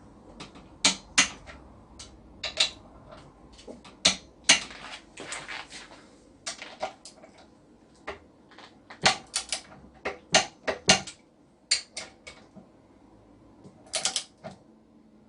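Hand tools working on the outboard's metal parts: irregular sharp metallic clicks and knocks, some coming in quick clusters of two or three.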